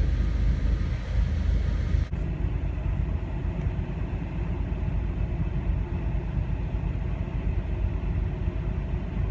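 Car on the move, a steady low rumble of engine and road noise. The rumble breaks off abruptly about two seconds in and carries on slightly quieter.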